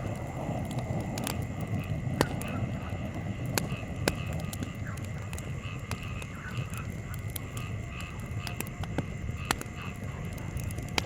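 Wood campfire crackling, with a few sharp pops standing out, over a low steady rumble of breeze. A faint rhythmic chirping, about two to three a second, and a steady high hum run underneath.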